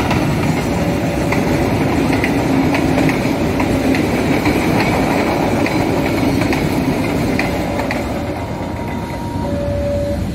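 A train of rail tank wagons rolling past at close range, its wheels clicking over the rail joints. The sound eases a little near the end as the last wagons go by.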